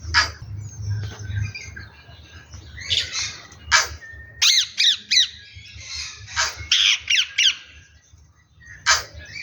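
Tui calling from the trees: a string of separate sharp squawks and clicks, with a quick run of four falling whistled notes about halfway through.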